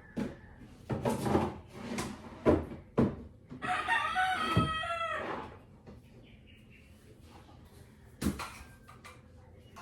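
Several sharp knocks and clatter, with one long animal call about four seconds in that falls in pitch at its end, and another knock near the end.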